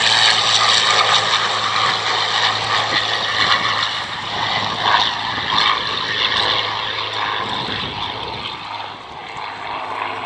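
Hawker Sea Hurricane's Rolls-Royce Merlin V12 engine in flight: a loud, steady propeller-engine note that grows gradually fainter over the second half as the aircraft moves away.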